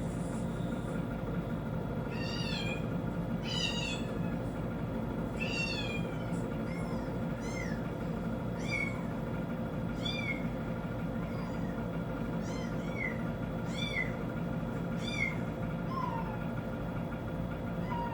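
Kitten mewing from a TV: about a dozen short, high-pitched mews roughly a second apart, over a steady low hum.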